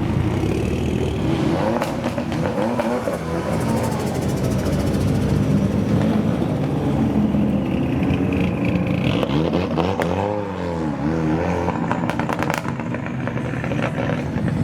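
Modified Japanese car engine running loudly, its pitch rising and falling briefly about ten seconds in as it revs.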